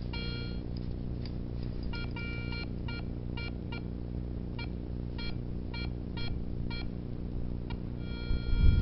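Metal detector sweeping over snow: short pitched beeps, a dozen or so at irregular spacing, over a steady low hum. The beeps are the detector signalling metal targets under the coil.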